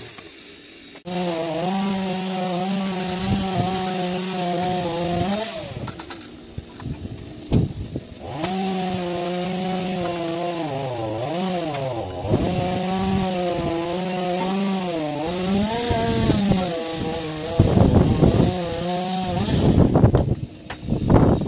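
A handheld power cutting tool running at high speed. It pauses once partway through, then runs again, its pitch sagging and recovering repeatedly as it bites into the material.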